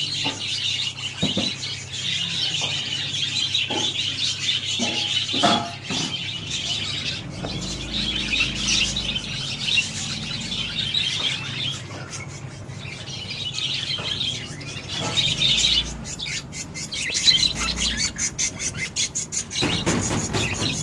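Budgerigars chattering and warbling, a continuous run of quick chirps and twitters with scattered clicks.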